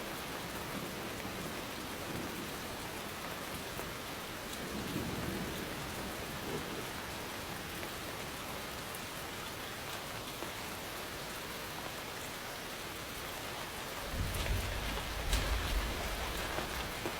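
Steady rain falling, with a low rumble of thunder starting near the end.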